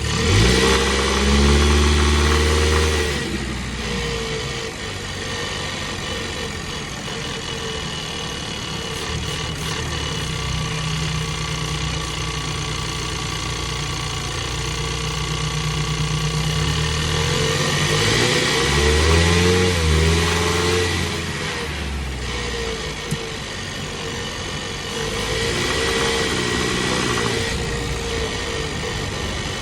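2022 Ford Bronco's 2.3-litre turbocharged four-cylinder engine running, with the revs rising and falling three times: near the start, about two-thirds of the way through, and near the end. In between it holds a steady drone. One brief click comes just after the second rise.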